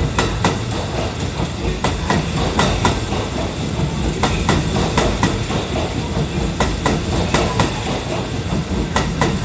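Kintetsu 80000-series limited-express electric train running past at speed, its wheels clicking over rail joints in repeated pairs over a steady rolling rumble.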